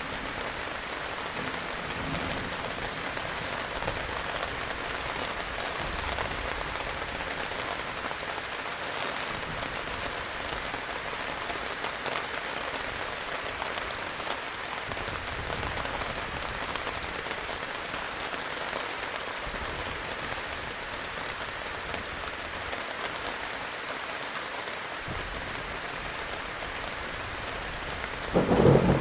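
Heavy rain falling steadily, with low thunder rumbling at times and a louder clap of thunder near the end.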